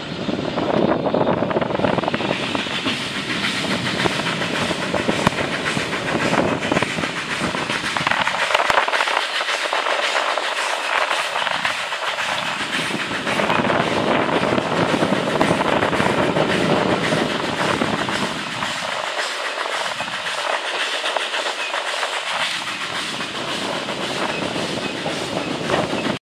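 Passenger carriage of a steam-hauled heritage train running along the line, heard from an open window: wheels clacking over the rail joints under a steady rush of running noise.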